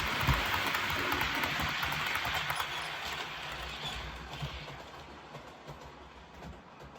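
Sound decoder of an Accurascale OO gauge Class 37 model playing the diesel engine at full thrash through the loco's small speaker; the sound fades away over the last few seconds.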